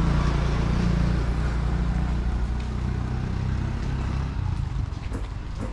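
A motor engine running steadily close by, fading away from about four and a half seconds in.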